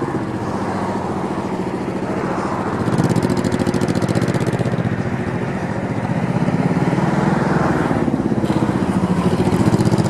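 Honda Shadow Sabre VT1100 C2's V-twin engine pulling away and working through tight low-speed turns, its note rising and falling as the throttle is opened and closed. It gets louder about three seconds in.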